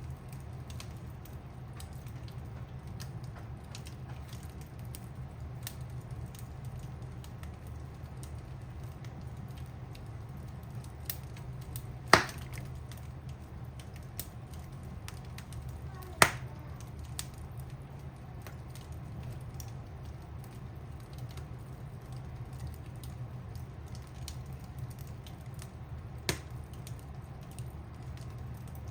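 Wood fire crackling in a fireplace: a constant patter of small ticks over a low steady hum, with three louder sharp pops, two close together near the middle and one more near the end.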